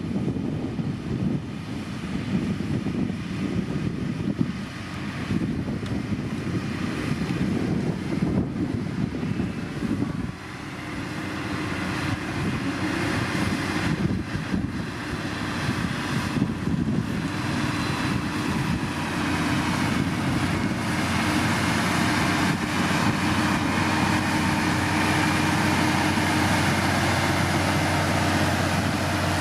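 Diesel engine of heavy road-building machinery running continuously. The sound dips briefly about a third of the way in, then settles into a steadier hum that grows louder toward the end.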